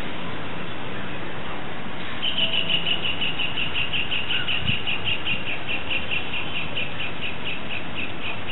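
A bird calling in a rapid, even series of high chirps, about five a second, starting about two seconds in and running on, over a steady background hiss.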